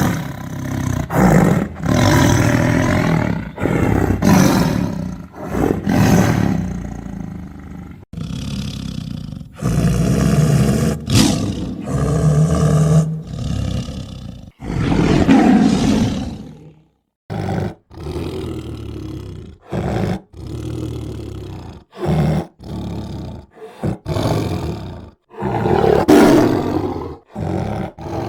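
Tiger roaring and growling over and over, one loud call after another. Some calls break off abruptly, with short silent gaps between them that come more often in the second half.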